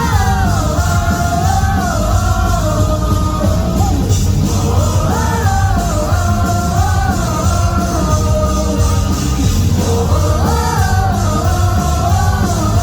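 Live rock band playing at full volume: heavy drums and bass under a high melodic line that comes in phrases of about four seconds each.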